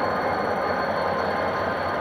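Passenger train coaches rolling past, a steady rolling noise of wheels on the rails.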